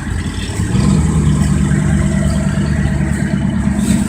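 A car engine running at a steady low speed close by. Its sound grows louder a little under a second in, then holds level, as with a show car idling or rolling slowly up.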